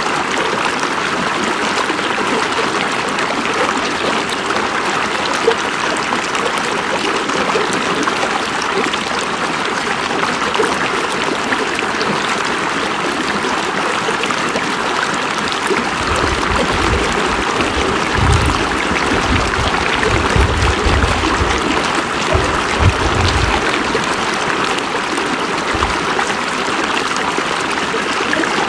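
A river running steadily, a constant rushing and trickling of flowing water. Past the middle, for several seconds, low uneven rumbles come in under it, and once more briefly near the end.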